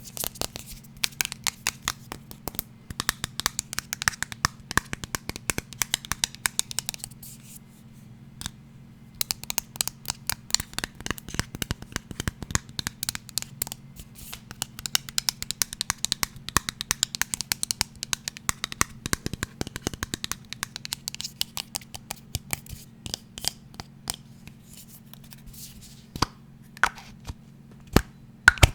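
Fast fingertip tapping and scratching on an unseen object, a dense patter of many small sharp clicks. It breaks off briefly about a quarter of the way through and thins to a few separate taps near the end.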